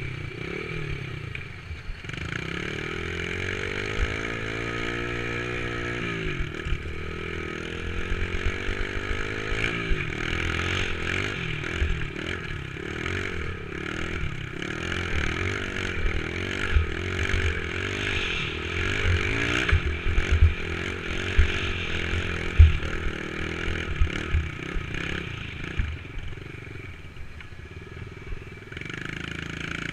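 Dirt bike engine revving up and down as it is ridden, its pitch rising and falling again and again, with frequent low thumps and knocks.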